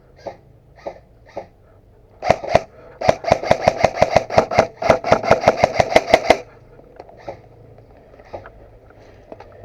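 Airsoft rifle firing: two or three shots a little after two seconds in, then a rapid string of about eight shots a second for some three seconds, stopping abruptly.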